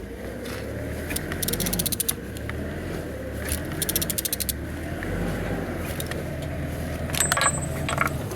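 Mercedes-Benz M112 V6 engine being turned over by hand with a ratchet wrench: runs of rapid ratchet clicks on the back strokes, with a low scraping rumble as the crank turns. It turns freely, not seized. A few sharp metallic knocks come near the end.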